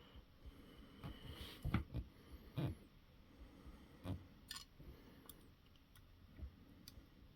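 Scattered light clicks and taps of small tools and parts being handled on an RC truck chassis, a few sharper knocks among them, as the sliders are taken off to make room for the suspension links.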